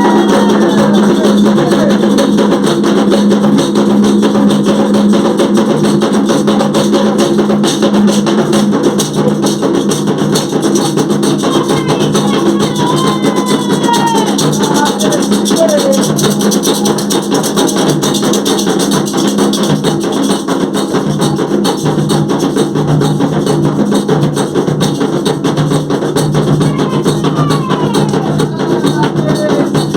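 Drums and a shaker rattle playing a steady, fast rhythm, with voices singing over them.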